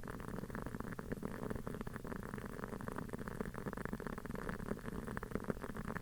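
Wooden-wick candle crackling like a small campfire: a steady, dense run of small irregular pops and ticks from the burning wooden wick.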